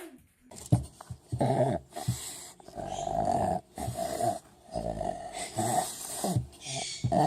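An animal vocalizing in a string of short pitched calls, one after another.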